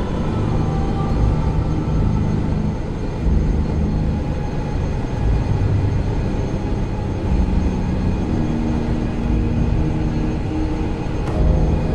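Ship's engine room machinery running with a steady, loud low rumble.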